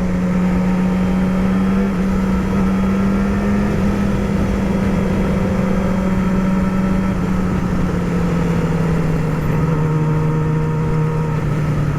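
Yamaha R6 sport bike's inline-four engine running steadily at cruising revs while riding, with wind rush over the microphone. The engine pitch eases slightly lower over the last few seconds.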